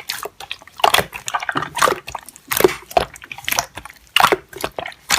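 Slime being squished and stretched by hand, making irregular wet clicks and pops several times a second.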